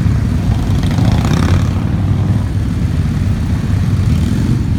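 A stream of motorcycles riding past one after another, their engines running steadily and overlapping.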